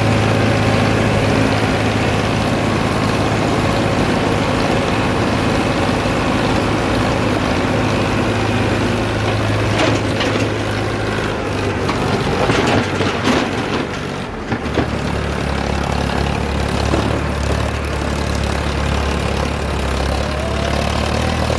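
Farmtrac tractor's diesel engine running steadily. About two-thirds of the way in, its note drops lower and heavier, and a few knocks are heard around the change.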